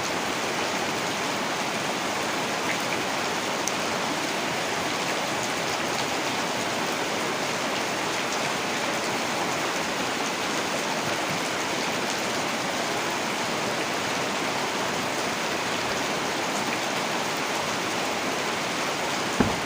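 Heavy rain falling steadily. A brief dull thump sounds just before the end.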